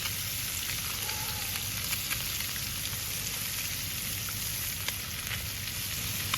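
Shark fillets frying in butter in a cast iron pan: a steady sizzle with scattered small pops.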